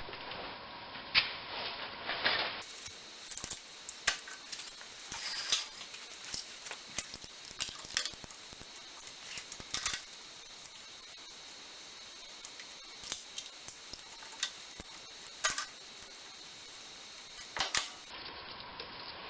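Small metal hand tool clicking and clinking against the lead-screw end bracket of a lathe while 5 mm screws are loosened: irregular sharp metallic clicks, some close together, others seconds apart.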